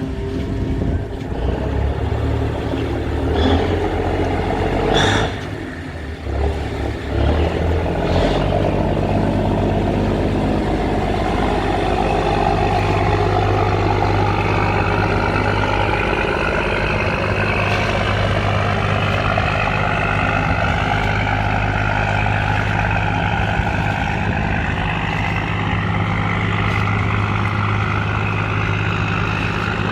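Boat engine running loudly and steadily, its pitch slowly rising from about ten seconds in.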